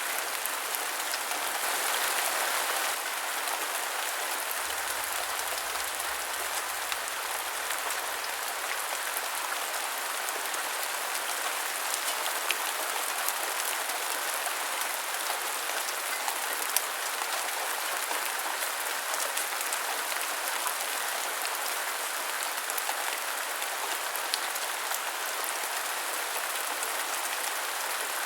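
Steady rain falling, a dense even hiss dotted with sharper individual drop taps; it swells slightly louder for a moment about two seconds in.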